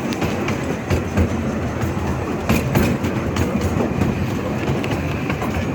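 Small-gauge railway train rolling along the track: a steady rumble with scattered sharp clicks of the wheels over the rails.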